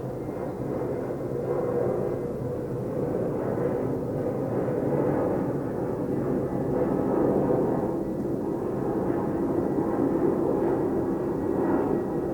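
A steady low rumble that slowly swells and eases, with no distinct knocks or calls.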